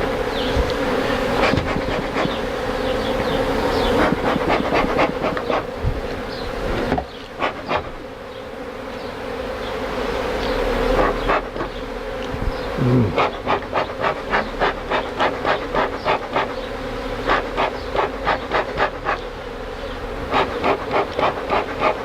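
A honey bee colony buzzing steadily, with runs of short, sharp ticks on top, about three a second.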